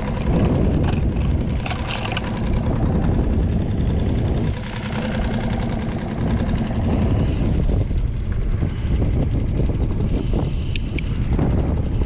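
Small skiff's outboard motor running at idle, with wind buffeting the microphone and a few sharp clicks.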